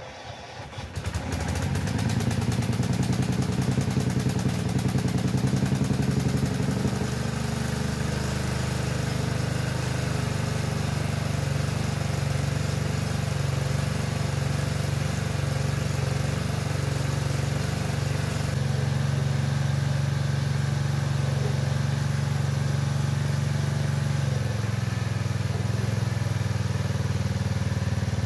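Small engine of an old Craftsman garden tractor starting up and running steadily, the freshly cleaned carburetor keeping it going; its speed drops slightly about seven seconds in and shifts a little twice more later on.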